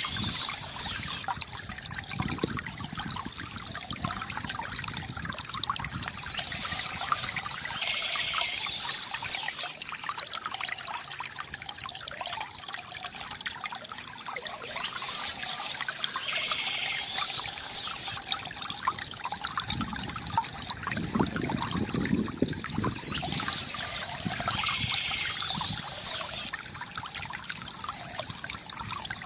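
Stream water trickling and flowing steadily, with a short patch of high chirping, taken for bird song, recurring about every eight seconds.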